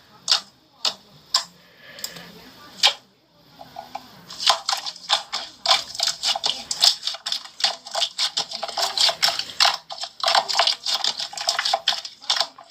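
Sharp clicks: a few spaced clicks in the first three seconds, then fast, continuous clicking from about four and a half seconds on.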